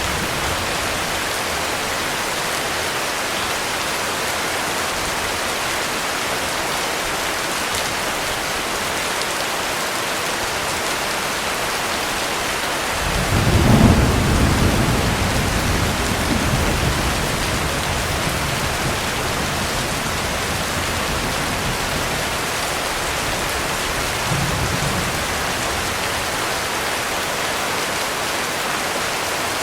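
Heavy rain falling steadily, with a low thunder rumble that swells about halfway through and fades over a few seconds, and a fainter short rumble later on.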